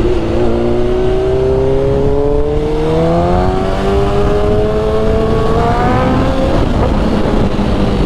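Sport-bike inline-four engine accelerating, its pitch climbing steadily for about six seconds, then dropping as it shifts up and running on steadily, with wind rush.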